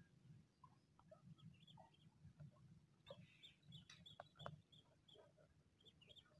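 Near silence: faint outdoor ambience with scattered soft bird chirps, busiest near the middle, and a few light clicks.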